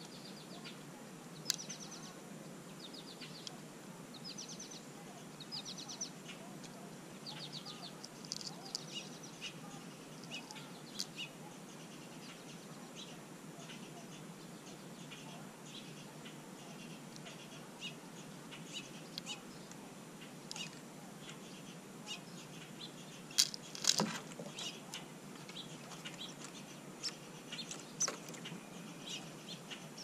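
Small birds calling in short, rapid trilled chirps, several in the first ten seconds, over scattered sharp clicks, with one louder knock about 24 seconds in.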